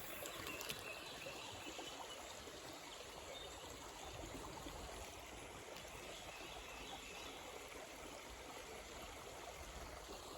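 River water flowing, a faint steady rush, with one brief click shortly after the start.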